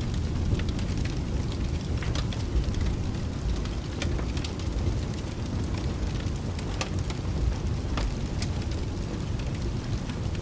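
Steady rain under a low continuous rumble, with scattered sharp crackles of a wood fire.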